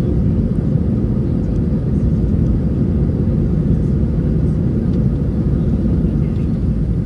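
Airbus A320 engines and airflow heard from inside the passenger cabin: a steady, loud, low rumble with no change.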